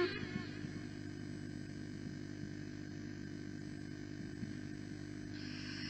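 Steady low electrical hum from a microphone and PA system during a pause in Quran recitation, with the tail of the reciter's held note dying away at the start and a soft hiss coming in near the end.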